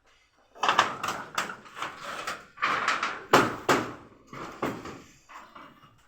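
Hand tool work on wood during house repair: a run of irregular scraping strokes with a few sharper knocks, starting about half a second in.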